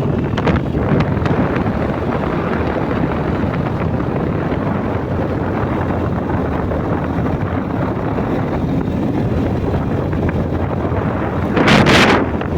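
Wind rushing over the microphone above a steady low rumble, with a louder gust near the end.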